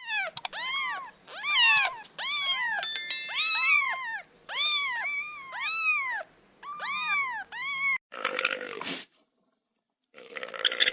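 A cat meowing over and over, about a dozen rising-and-falling meows in quick succession. After about eight seconds the meowing stops abruptly and a short harsh noise follows. Near the end a different rough, noisy sound begins.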